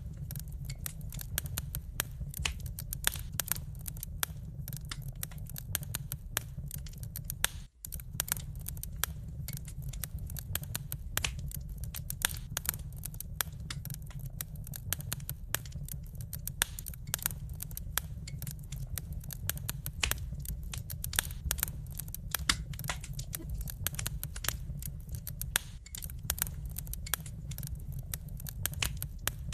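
Wood fire crackling: a dense run of sharp pops and snaps from the burning logs over a steady low rumble, cutting out for a split second about eight seconds in.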